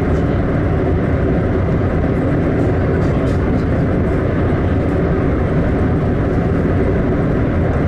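Steady running noise of a EuroCity express train travelling at speed, heard from inside the passenger car.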